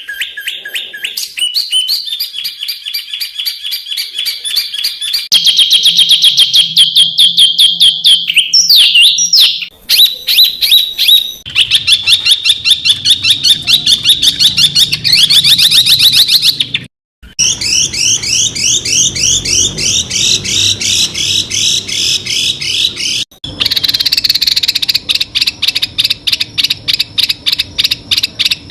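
Small songbirds' song in the fast, harsh, repeated 'tembakan' style of a masteran recording. It comes as a run of different rapid chattering and trilling phrases, each a quick series of sharp high notes. Brief abrupt cuts come about 17 and 23 seconds in, where one edited phrase gives way to the next.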